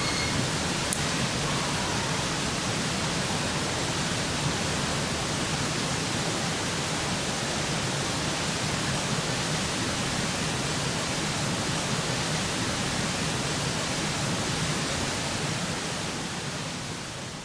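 Steady rushing noise with no distinct events, starting to fade out right at the end.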